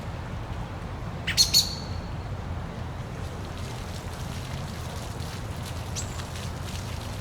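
Steady rush of a waterfall, with a bird giving a few quick, sharp chirps about a second and a half in and a fainter one near the end.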